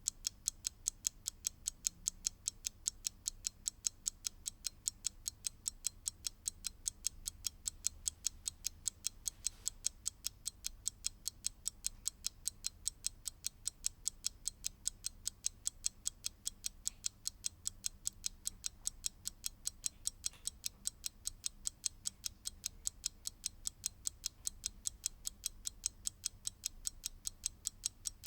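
Mechanical clock ticking, fast and perfectly even, several sharp ticks a second.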